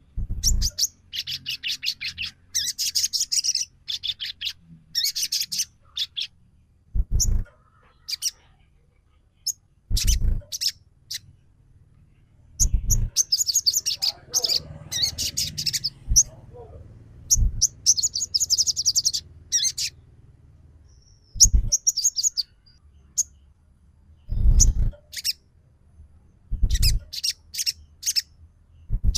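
A sogon songbird calling in bouts of rapid, high chirping trills separated by short pauses, a lure call meant to stir other birds to answer. Several dull thumps come in between the bouts.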